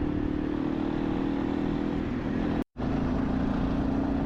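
Motorcycle engine running at a steady speed while riding, over a steady rushing noise. The sound cuts out completely for a split second about two-thirds of the way through.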